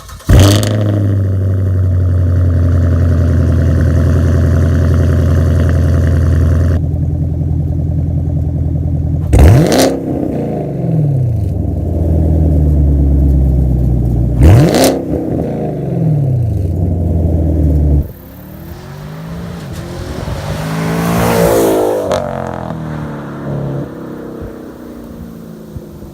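Camaro SS's 6.2-litre V8 running through a muffler-deleted exhaust (mufflers cut out, Y-pipes to the stock dual tips). It comes in suddenly and loud and holds a steady idle, is blipped in two quick revs, then after an abrupt cut a quieter engine sound swells and fades.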